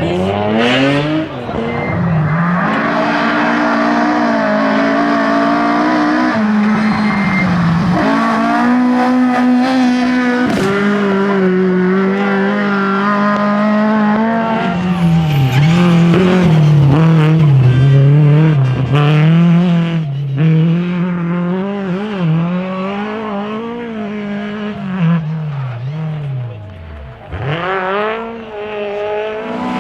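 Drift car engine revving hard, its pitch rising and falling over and over as the throttle is worked, with tyre squeal; the revs drop sharply a few times and climb again.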